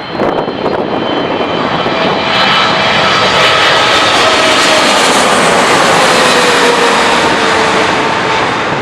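Jet noise of a Boeing 777-300ER's twin GE90 turbofans as the airliner passes low on landing approach, loud and building to a peak midway before easing off. Whining engine tones slide slowly down in pitch as it goes past.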